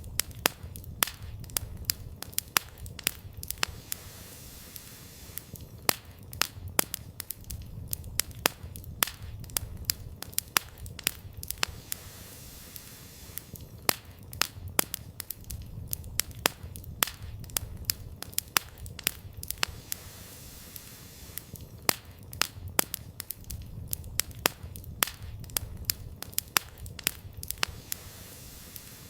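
Wood fire burning: dense, irregular crackling and sharp pops of burning firewood over a low, uneven rumble of the flames, the popping thinning out briefly a few times.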